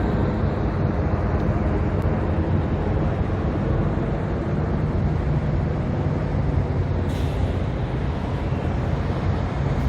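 Steady rumble of city road traffic, an even roar with a heavy low drone throughout.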